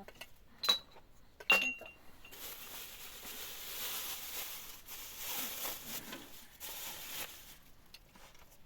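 Glass or dishware clinking twice, each clink ringing briefly, followed by several seconds of steady hissing noise that fades out near the end.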